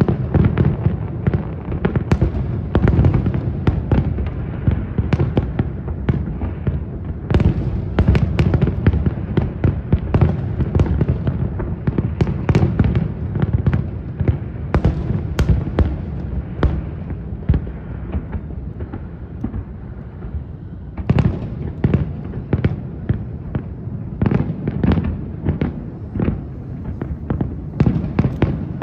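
Fireworks display: a dense run of shell bursts, rapid bangs over deep booms, thinning out briefly about two-thirds of the way through before a fresh cluster of bangs.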